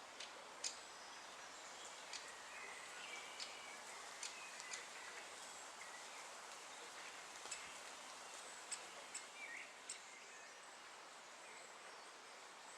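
Great spotted woodpecker giving short, sharp 'kik' calls, about a dozen scattered irregularly, with a few faint short chirps, over a steady outdoor hiss.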